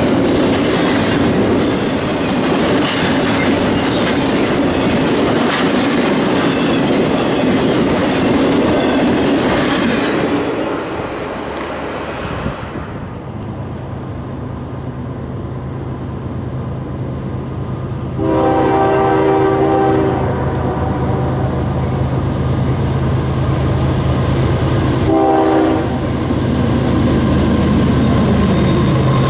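Double-stack intermodal freight cars rolling past with wheels clacking over the rail joints. After a cut, an approaching freight train's diesel locomotives drone steadily and sound a multi-chime air horn: one long blast past the middle and a short one near the end, with the train growing louder as it nears.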